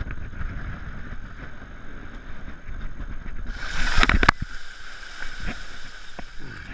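Rumble inside a small plane's cockpit, then a sudden loud impact about four seconds in: a rush of noise with two hard knocks. The occupants take the impact for hitting a bird. A quieter steady hum follows.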